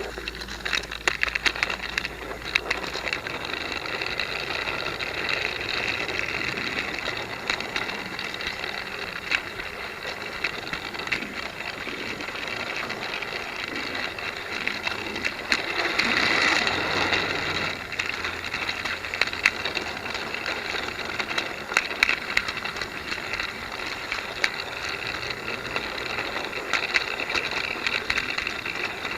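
Battery-powered Trackmaster Duck toy locomotive running on plastic track: a steady whirr of its motorised drive unit with constant small clicks and rattles, briefly louder a little past halfway. It runs roughly, which the owner puts down to wheels that bind once every revolution.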